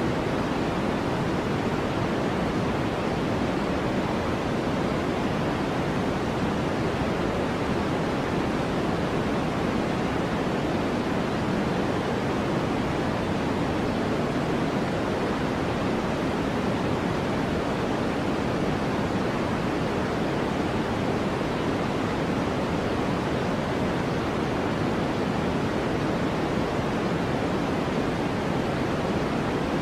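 Steady white-noise track: an even, unchanging rushing hiss, heaviest in the low-middle range and softer in the highs, with no pauses or changes.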